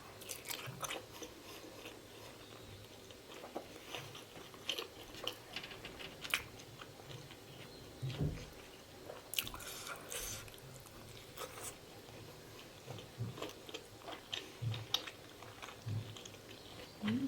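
A person chewing and biting pork momo dumplings up close, with wet mouth clicks scattered throughout and a few low thuds.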